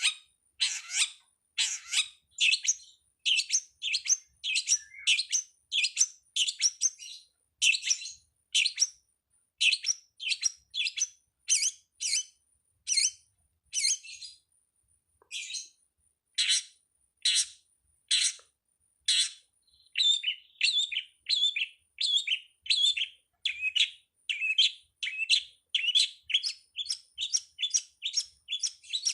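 Long-tailed shrike (pentet) giving a rapid, unbroken series of short, sharp calls, about two a second, with a brief pause about halfway through. A faint, steady high-pitched tone runs underneath.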